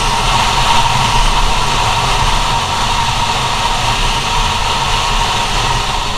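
Small two-stroke engine of a GoPed scooter (a CR70) running at steady high revs under way, with wind noise hissing over the microphone.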